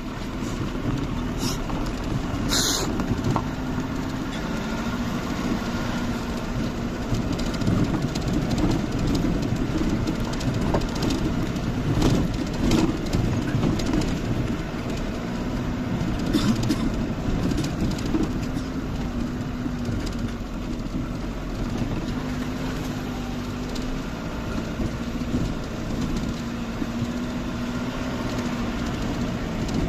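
A vehicle driving: a steady engine hum with road noise and irregular rattling and knocks.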